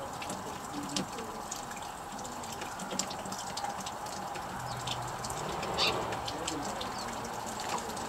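Small birds at backyard feeders giving short, high chirps, scattered irregularly over a steady background hiss, with one louder call near the end.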